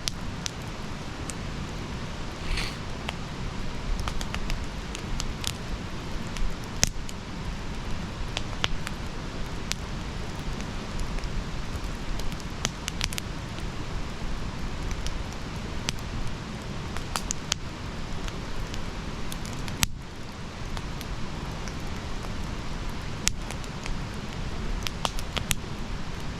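Bonfire crackling: a steady low rumble of burning wood with frequent sharp, irregular pops and snaps, and a brief faint hiss about two and a half seconds in.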